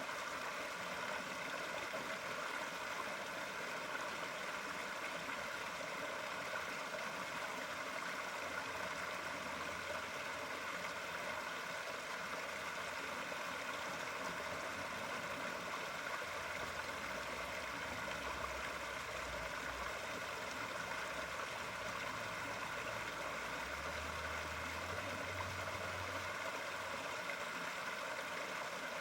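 Running water, a steady even rush, with a faint low rumble that comes and goes through the middle.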